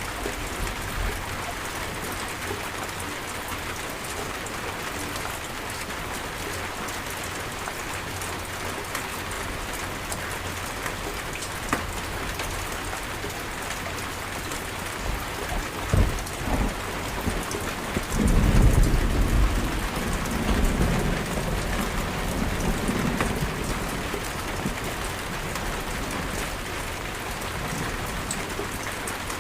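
Steady heavy rain falling. About halfway through there is a sharp crack of thunder, then a loud low rolling rumble of thunder that peaks and slowly fades over several seconds.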